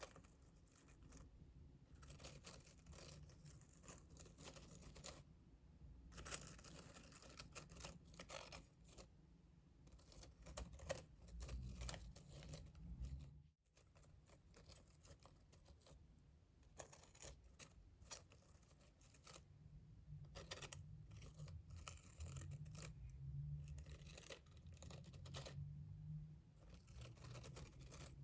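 Close-miked ASMR trigger sounds: soft, irregular scratching and crinkling, which drop out for an instant about halfway through.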